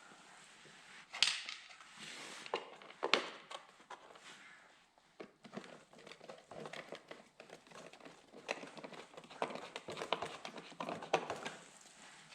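Hard plastic pit bike fender and body panels being handled and fitted together: a run of clicks, knocks and crinkling, with two sharper knocks about one and three seconds in.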